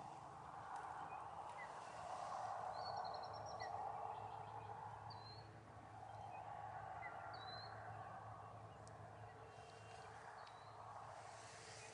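Field ambience: a few short, high bird chirps over a faint, steady outdoor background noise.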